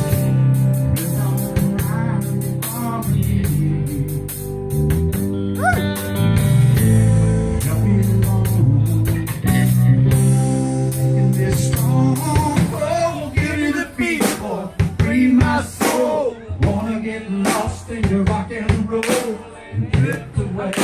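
Live band music: a drum kit keeping a steady beat under guitar, bass and keyboard. The drums grow more prominent in the second half.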